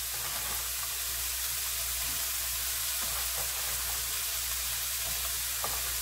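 Soybean sprouts, onion and garlic sizzling steadily in a nonstick frying pan over medium heat, stirred with a spatula, with a few faint light knocks from the spatula.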